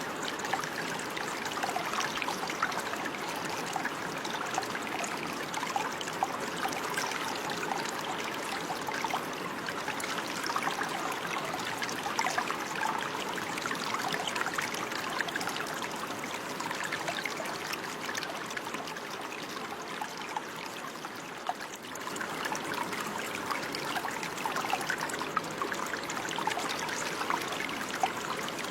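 Running water in a steady trickling flow, with a continuous rush flecked with small splashes and a slight, brief dip in level about twenty seconds in.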